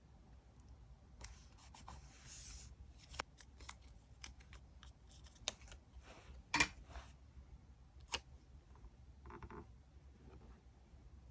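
Scissors cutting paper in short snips, mixed with light paper handling and small clicks on the desk; the sharpest snip comes about six and a half seconds in.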